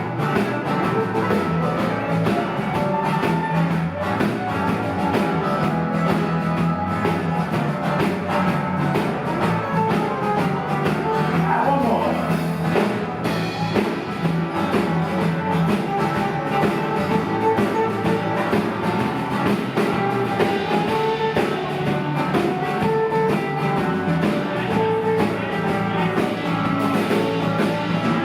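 A live rock band playing continuously, with electric guitar and drum kit.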